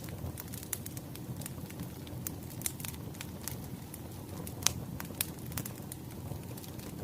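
Wood fire crackling: a steady low rush of burning logs with scattered sharp pops and snaps, the loudest pop about two-thirds of the way through.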